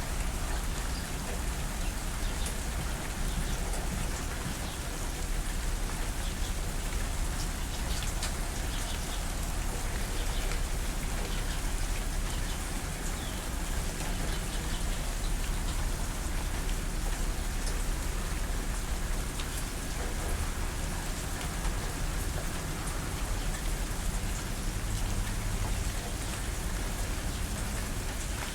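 Steady rain falling on a surface, a continuous hiss with scattered drop ticks.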